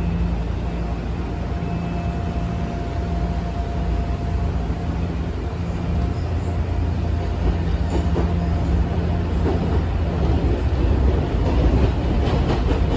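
Odakyu 8000 series electric train running, heard from inside the passenger car: a steady rumble of wheels and running gear with a faint steady whine, and a few clacks near the end.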